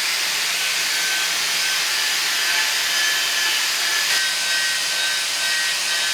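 Angle grinder with a wire cup wheel scrubbing rust off a steel cart wheel: a steady hissing scrub over the grinder motor's whine.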